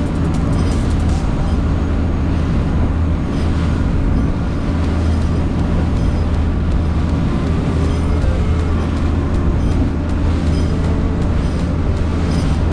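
Fishing boat's engine running steadily at a constant speed, with short clicks every second or two.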